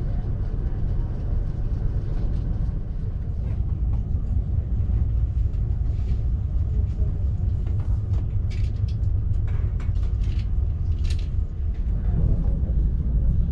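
Inside an ÖBB Railjet passenger coach: steady deep rumble of the train running on the track, with a few brief faint high clicks or squeaks in the second half.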